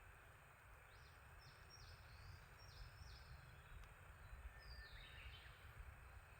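Faint songbird song: a run of about five short high notes, then a single falling phrase about five seconds in, over a steady background hiss and low rumble.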